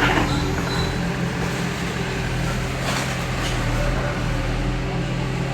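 Diesel engine of heavy earthmoving equipment running at a steady pitch, with short bursts of clatter at the start and about three seconds in.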